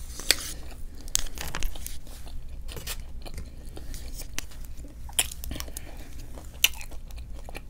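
A person chewing and crunching fried takeout food close to the microphone, with irregular crisp crunches and mouth clicks.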